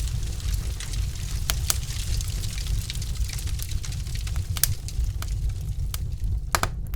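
Wood logs burning in a fireplace: irregular sharp crackles and pops over a steady low rumble and hiss, with a few brighter pops about six and a half seconds in.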